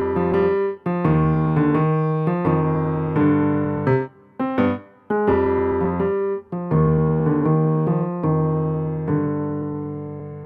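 Background music played on an electric piano: a sequence of sustained chords, the last one fading out near the end.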